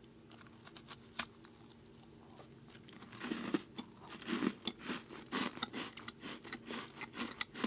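Close-miked chewing of a dry, hard, crumbly cookie. After a few faint clicks, steady crunching chews start about three seconds in, several a second.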